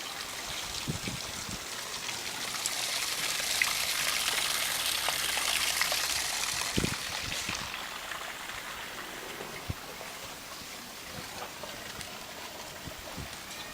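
A rushing hiss that swells over a few seconds about a third of the way in and then eases off, with a few soft low thumps.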